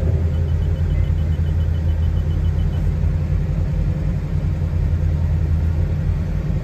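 The Corsair roadster's engine idling steadily while it warms up after a cold start, at a fast idle of a little over 1,000 RPM, heard from the driver's seat as a steady low rumble.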